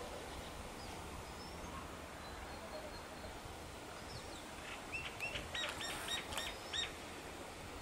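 A bird calling a quick run of about seven short, rising notes about five seconds in, over faint steady outdoor background noise.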